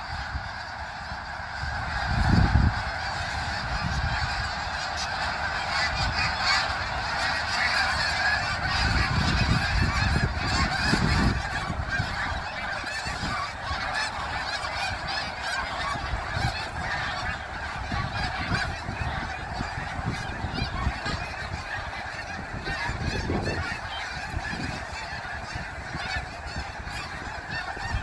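A large flock of migratory winter birds calling together in a dense, unbroken chorus, with low rumbles coming and going underneath.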